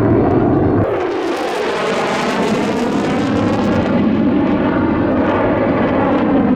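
Fighter jet making a fast pass. About a second in, loud jet engine noise sweeps in with a rushing, phasing whoosh that keeps shifting in pitch as the aircraft goes by.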